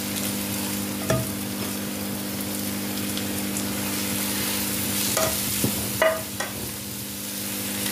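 Scrambled egg and chopped vegetables sizzling in a hot nonstick kadhai as they are stirred with a spatula, with a few knocks of the spatula against the pan. A steady low hum runs underneath.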